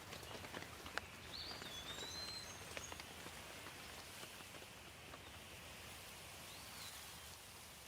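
Light rain falling steadily, with scattered individual drops. A bird gives short chirps: one about a second and a half in, and another near the end.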